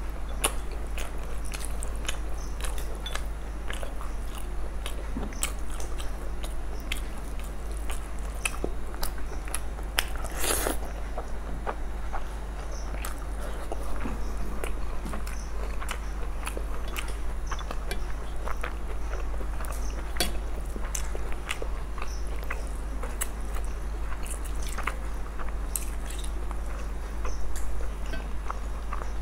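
Close-miked mouth sounds of people eating fried rice and egg curry by hand: chewing, lip-smacking and frequent small wet clicks, with one louder sound about ten seconds in. A steady low hum runs underneath.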